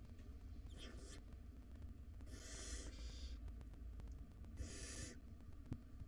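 Barn owl nestlings making hissing, snore-like begging calls for food: three breathy hisses, each under a second long, a second or two apart, over a steady low hum.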